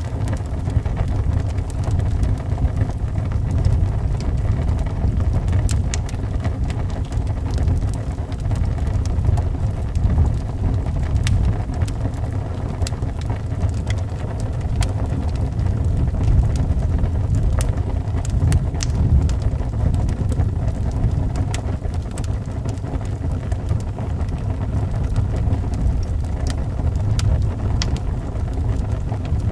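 Wood fire crackling, with scattered sharp pops, over a steady low rumble of wind.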